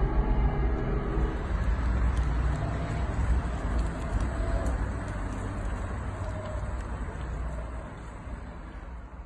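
The BMW Vision M Next concept car driving off, a low rumble that grows steadily fainter as it moves away.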